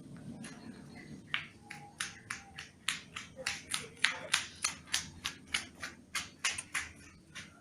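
Long-tailed shrike (cendet) giving a rapid run of short, harsh clicking notes, about four a second, with a few brief whistled notes mixed in. The run starts about a second in and stops shortly before the end.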